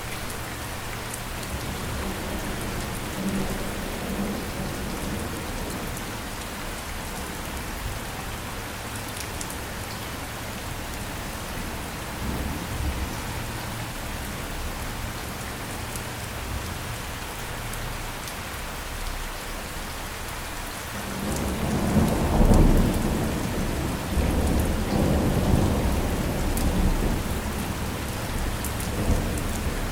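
Steady rain falling, with a low roll of thunder building about two-thirds of the way through and rumbling on in swells to the end.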